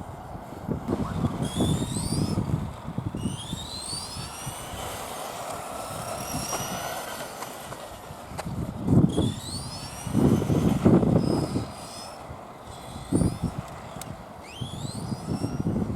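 Electric motor of a Tamiya radio-controlled truck whining, rising in pitch several times as it speeds up, over uneven low rumbling bursts that are loudest in the middle of the stretch.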